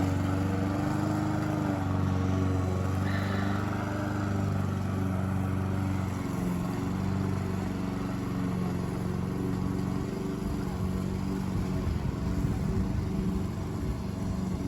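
A tractor's engine running steadily while mowing long, thick grass. About six seconds in its steady tone weakens and the sound turns rougher and more rumbling.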